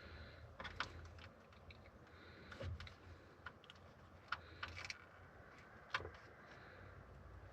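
Faint, scattered light clicks and taps of small plastic parts as truck headlight bulbs and their sockets are handled.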